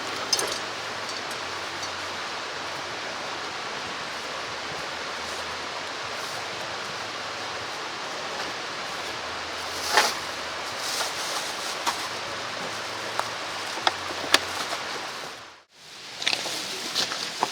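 Mountain stream flowing with a steady rush of water, with a few sharp clicks and knocks over it, the loudest about ten seconds in. The sound drops out briefly near the end.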